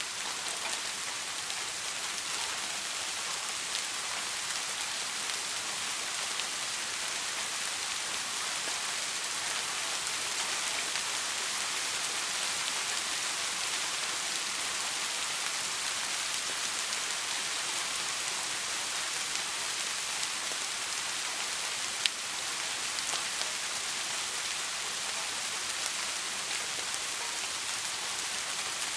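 Steady soft rain falling, an even high hiss of drops with no thunder. A single sharp tick stands out about three-quarters of the way through.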